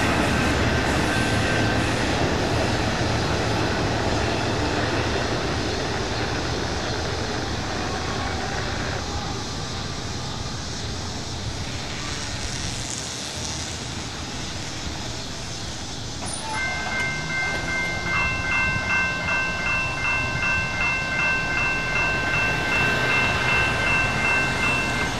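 Freight train rumbling and clattering as it moves away, fading over the first half. About two-thirds of the way in, the crossing's General Signals type-2 electronic bell starts ringing a steady, evenly pulsing high tone, as the crossing gates begin to rise.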